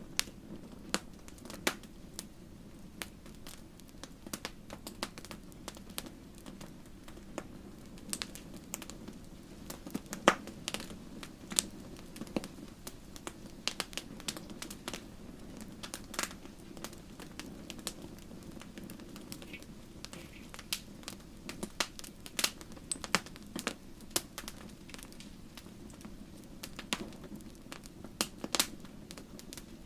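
Wood fire crackling and popping in a fireplace: irregular sharp snaps over a steady low hiss of burning.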